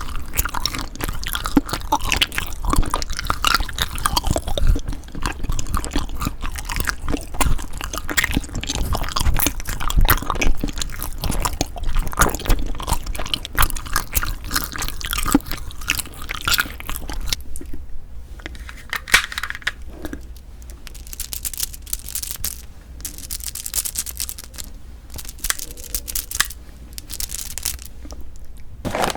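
Chewing of a Kiri cream cheese ice rice cake: a dense run of irregular mouth clicks and smacks that thins out after about 17 seconds.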